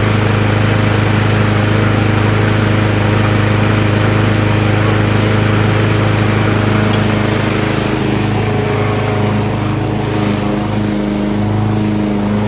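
Yardmax 21-inch walk-behind mower's 170cc single-cylinder gas engine running steadily on its first start. About eight seconds in its note shifts and wavers, then settles again.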